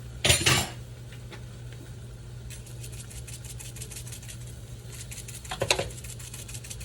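Food crackling in a hot pan over a steady low hum, with two short kitchen clatters, one just after the start and one near the end.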